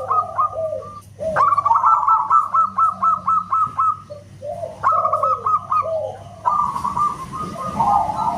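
Zebra doves (perkutut) cooing in rapid staccato phrases, about four phrases in a row with short gaps between them. A steady low hum runs underneath.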